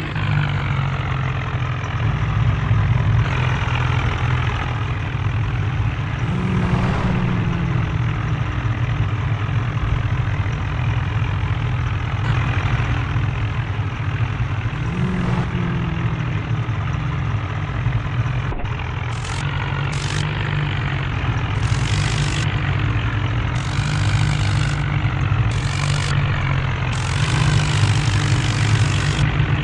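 Diesel tractor engine running steadily under load, revving up briefly twice, about seven and fifteen seconds in. Short bursts of hiss come and go in the second half.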